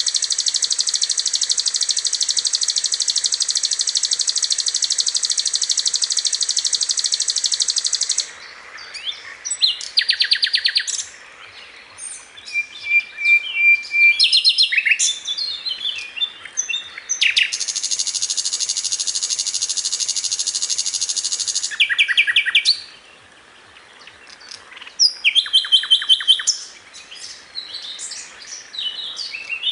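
Sikatan londo flycatcher singing: a long, fast, high trill of several seconds at the start and another about halfway through, with varied chirps and short rapid runs of notes between them, broken by brief pauses.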